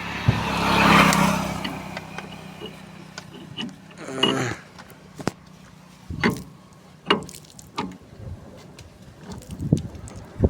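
A brief swelling whir with a low hum over the first two seconds, then scattered knocks, clinks and a short scrape from e-rickshaw axle parts being handled.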